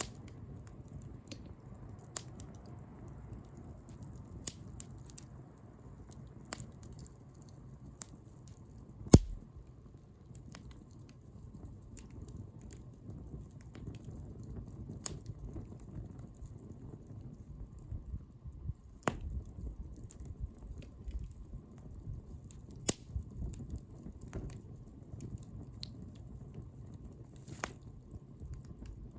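Wood bonfire burning: a low, steady rush of flame with irregular sharp crackles and pops, the loudest about nine seconds in.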